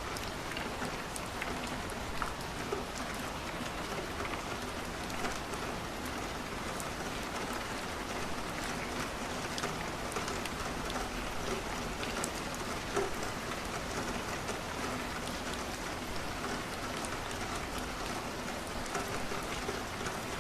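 Steady rain falling on a window, an even hiss dotted with small scattered ticks of drops.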